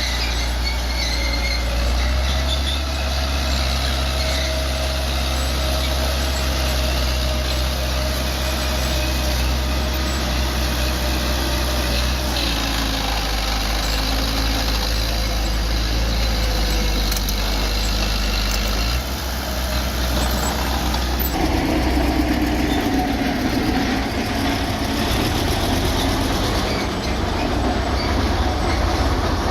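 Bulldozer's diesel engine running steadily with a thin whine over it; the engine note changes abruptly about 19 seconds in.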